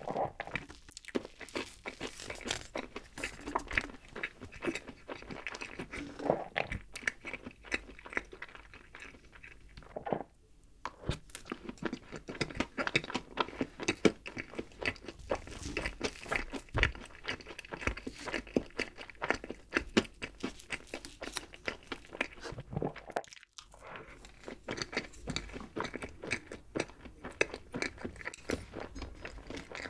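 Close-miked chewing of mixed-berry chocolate layer cake: a dense, irregular run of wet, clicky mouth and food sounds, with brief pauses about ten seconds in and again about twenty-three seconds in.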